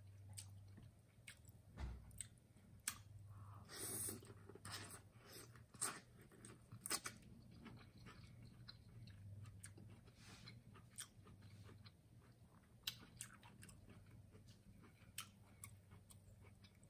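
Close-miked chewing of seafood boil in a spicy sauce: soft wet mouth sounds and scattered sharp clicks, a few of them louder, over a faint low hum.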